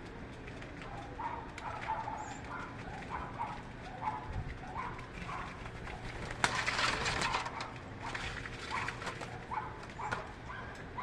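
Birds giving a run of short, repeated calls, one every half second to a second, with a louder rustling burst about six and a half seconds in.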